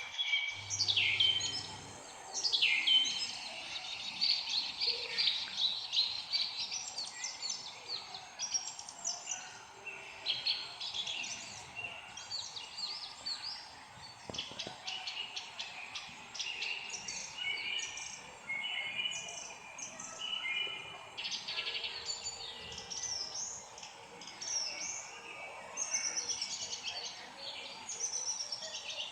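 Several songbirds chirping and singing at once, with short overlapping calls and trills all through. A few quick falling whistles stand out in the first few seconds.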